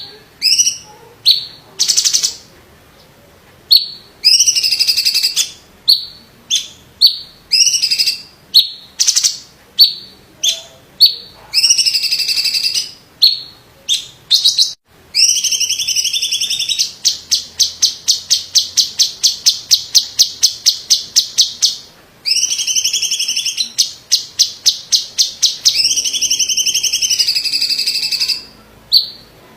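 Cucak cungkok leafbird singing loudly: sharp whistled notes and warbled phrases, broken by a long run of rapid, evenly repeated notes (about five a second) for several seconds in the middle.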